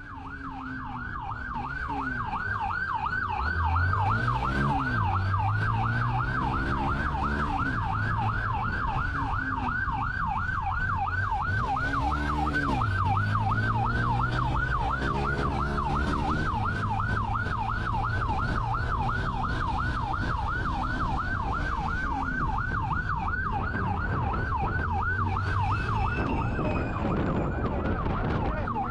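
Police siren in a fast yelp, sweeping up and down several times a second without a break. Beneath it a vehicle engine rises and falls in pitch as it revs through the chase.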